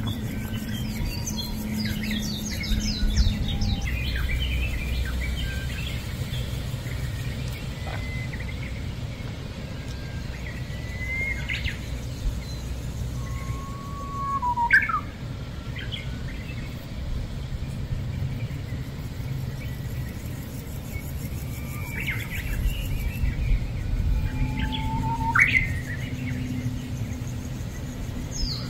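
Wild birds calling: a quick run of chirps near the start, then a few separate calls, several sweeping sharply upward, over a steady low hum.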